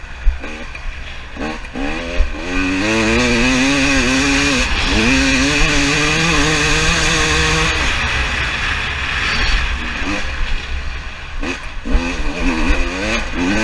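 2018 KTM 300 TPI fuel-injected two-stroke dirt bike engine revving hard, its pitch rising and falling as the throttle is worked. It eases off about eight seconds in, then picks up again near the end.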